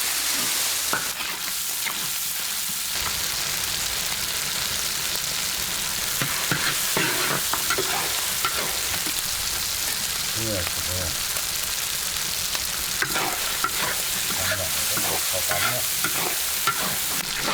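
Food frying in hot oil, sizzling steadily, while it is stirred in the pan, with scattered scrapes and clicks of the spatula against the pan.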